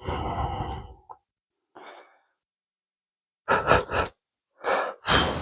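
Short puffs of blown air, with no speech: a long one at the start, three quick puffs about three and a half seconds in, and two more near the end.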